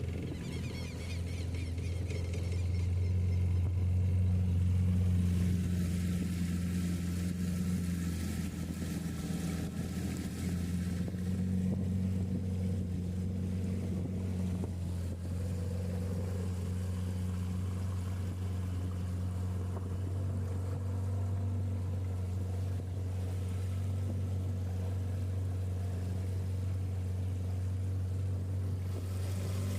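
Small boat's motor running steadily under way, an even low drone that is a little louder for the first few seconds.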